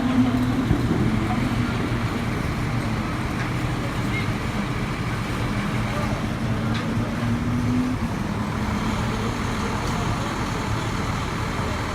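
Engine running steadily at low revs, a low hum that rises slightly in pitch about six to eight seconds in, over a background of street-circuit noise.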